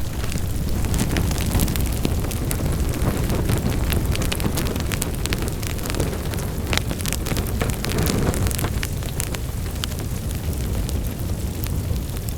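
Wood fire burning in a fireplace: a steady low roar of flames with frequent irregular sharp crackles and pops from the burning logs.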